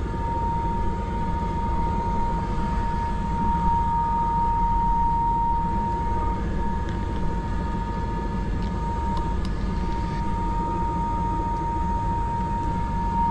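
Airbus AS350 B3 helicopter heard from the cockpit: its turboshaft engine and rotor running steadily, a constant low rumble with a steady high whine over it.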